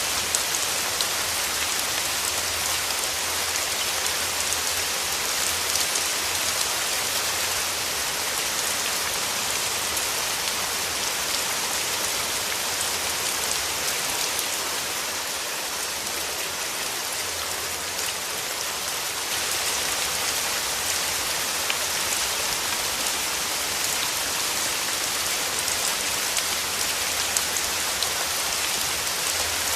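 Steady rain falling, an even hiss with scattered drop ticks, easing slightly for a few seconds midway before returning to its earlier strength.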